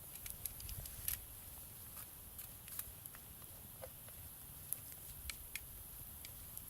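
Campfire crackling faintly, with irregular small pops scattered through it, over a steady faint hiss.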